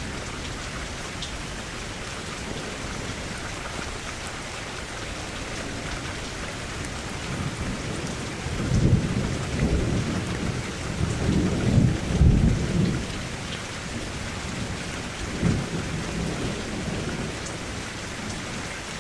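Steady rain falling against a window, with a long roll of thunder from about eight seconds in to about thirteen, and a shorter low rumble a couple of seconds later.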